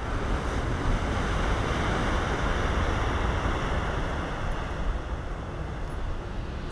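Ocean surf breaking and washing up onto a beach, a steady rush that swells a little in the middle, with wind rumbling on the microphone.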